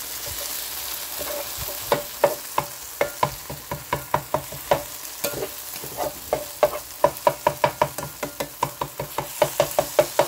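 Shaved steak and peppers sizzling in a nonstick electric skillet. About two seconds in, a plastic spatula starts chopping and scraping the meat against the pan, making quick taps about three a second over the sizzle.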